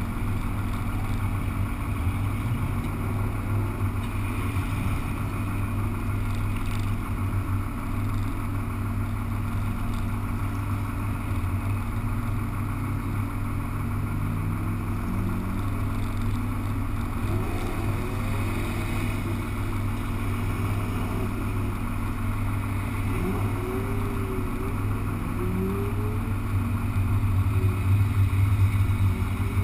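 Car engines idling steadily, with the engines of other cars rising and falling in pitch as they rev and move nearby; it gets louder near the end.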